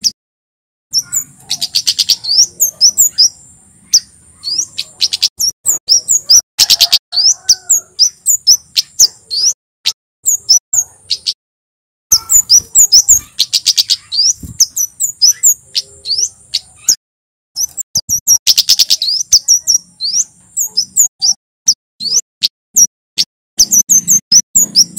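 Male kemade flowerpecker singing: loud, fast runs of sharp, high chips over a thin, steady high trill. The runs come in bursts with brief pauses between them.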